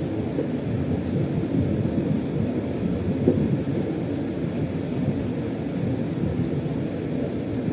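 Steady rumble of a freight train under way, heard from inside the locomotive's driver's cab: the running noise of wheels on rail and the locomotive, with small uneven jolts and no break.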